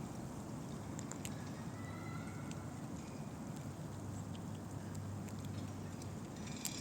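Squirrel cracking and gnawing Siberian pine nut shells: scattered faint sharp clicks, with a small cluster near the end, over a steady low outdoor rumble.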